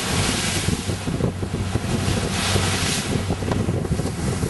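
Wind buffeting the microphone aboard a yacht under way, with water rushing along the hull and a steady low hum underneath, the noise surging up and down.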